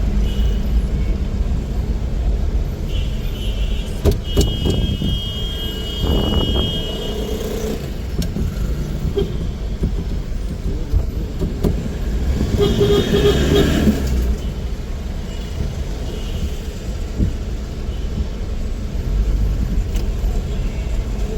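Car traffic: a steady low rumble of engine and tyre noise. A brief high, steady tone sounds about three to five seconds in, and a louder vehicle passes by around twelve to fourteen seconds in.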